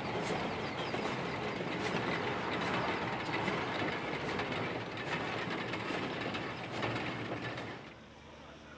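Narrow-gauge train running past, a steady rumble of running noise with repeated sharp clicks of the wheels over rail joints; the sound drops away about eight seconds in.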